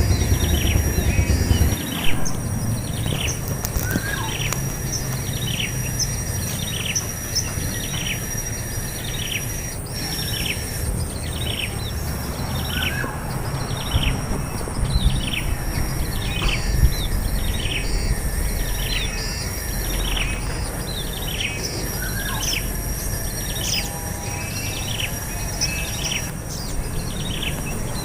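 A bird repeating a short, high, falling call note about once a second, over a steady high-pitched whine.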